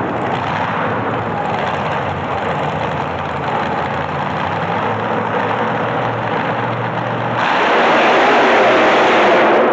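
Racing truck engine running loud under throttle, growing louder and harsher about seven seconds in.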